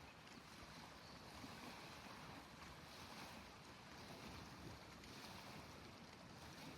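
Near silence: faint, steady outdoor background noise, a soft even hiss that swells and eases slightly.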